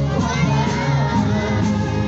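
Live band music with voices singing along: steady bass notes under a wavering sung melody.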